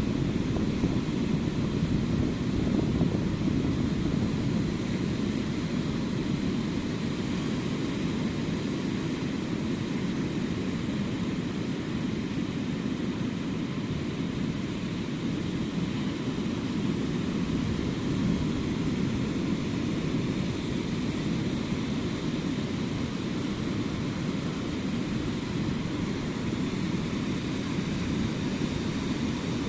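Ocean surf on a sandy beach, heard as a steady low rumble of breaking waves with no distinct single crashes.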